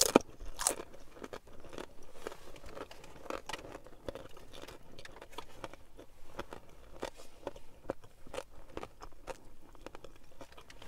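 A person chewing a mouthful of food with the mouth closed: a steady run of small wet mouth clicks and smacks, with a sharper crunch at the start and another a moment later.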